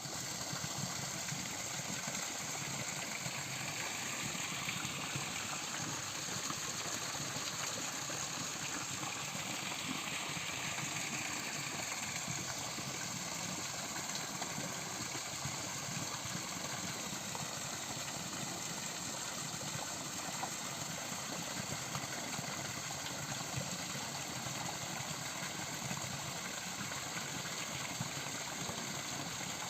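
Steady rushing of flowing water, unbroken throughout.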